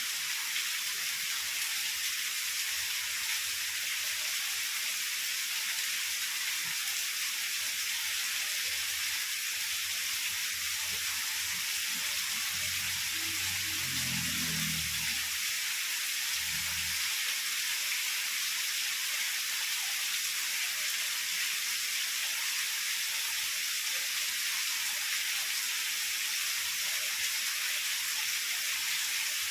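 Heavy rain falling steadily, a dense even hiss. A faint low rumble comes about halfway through.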